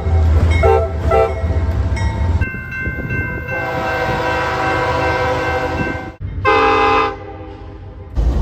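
Locomotive horn blasts in several abruptly cut segments: three short toots over a low engine rumble, then a long held chord of several tones, then another short blast about six and a half seconds in.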